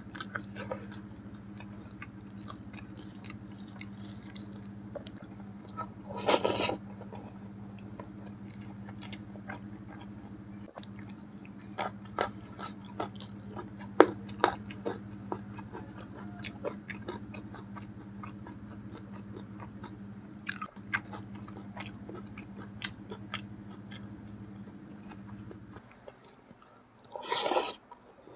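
Close-miked eating sounds: a person chewing and smacking on catfish and rice eaten by hand, with many small wet clicks. Two short, louder noises stand out, about six seconds in and near the end. A steady low hum underneath cuts off shortly before the end.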